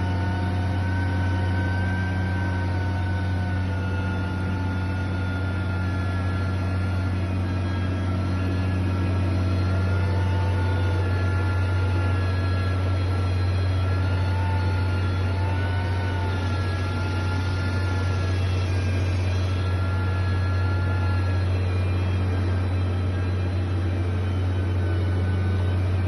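Heavy construction machine engine running steadily: a constant low drone with a faint high whine that wavers slightly in pitch.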